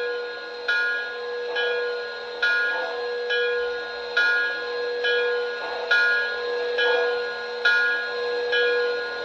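Steam locomotive bell sound played through the onboard speaker of an MTH Proto-Sound 2 O-gauge model of Nickel Plate Road 599, ringing steadily at a little more than one strike a second over a steady hum.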